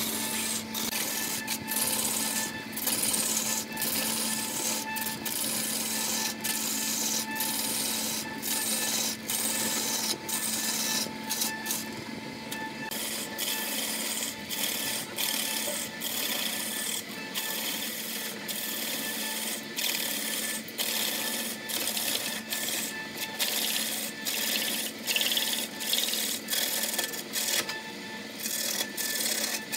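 Wood turning on a lathe: a hand-held gouge scraping and shaving a large spinning blank of stacked wooden rings, a continuous rasping cut broken by many brief gaps as the tool comes off the wood. A faint steady hum runs underneath.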